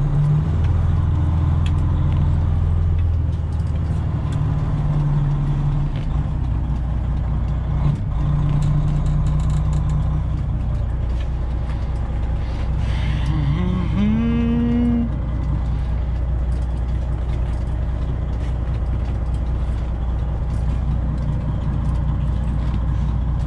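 Straight-piped Detroit Diesel 12.7 in a Freightliner Classic XL running at low revs while the truck creeps into position, its steady drone shifting pitch slightly a few times. A short knock comes about 8 seconds in, and a brief rising tone that then holds is heard about 13 seconds in.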